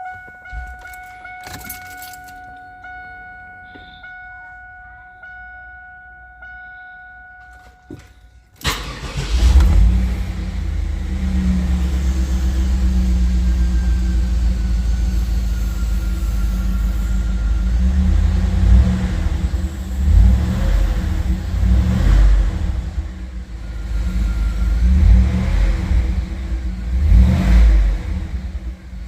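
GM LT1 V8 engine cold-started: after a steady high whine with a few clicks, the engine catches suddenly about eight and a half seconds in, flares up, then settles into a steady idle. In the last ten seconds the revs rise and fall several times.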